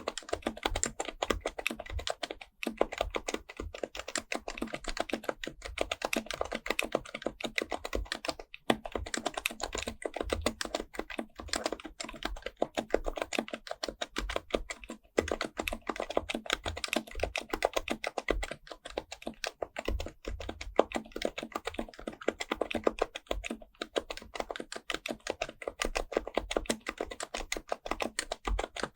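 Continuous fast typing on an HHKB Pro Type-S keyboard with Topre electrostatic capacitive switches, a dense run of soft keystrokes broken by brief pauses about two and a half and eight and a half seconds in.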